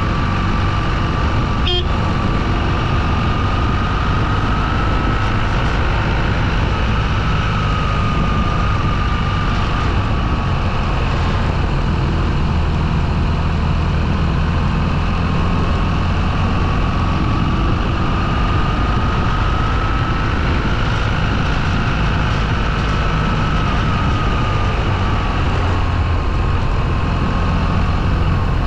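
Motorcycle riding along: steady engine and wind noise, with a high whine that slowly rises and falls in pitch as the speed changes.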